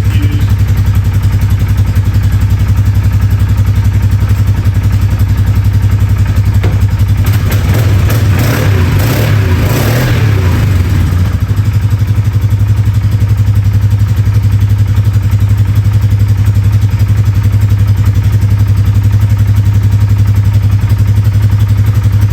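Polaris Sportsman 450 HO ATV's single-cylinder engine idling steadily, with a few seconds of uneven, higher running about seven seconds in that settles back to a steady idle.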